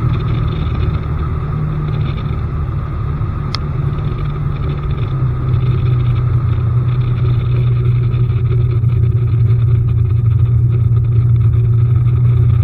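A bass boat's newly fitted outboard motor running steadily, with a deep, even hum whose pitch eases down slightly in the first few seconds. A single sharp click sounds about three and a half seconds in.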